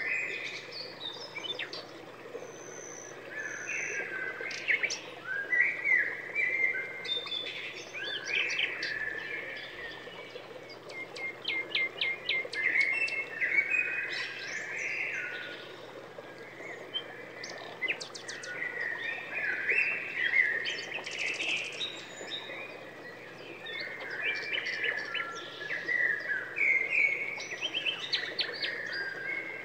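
Songbirds singing, a busy run of varied chirps and fast trills that keeps going with short pauses.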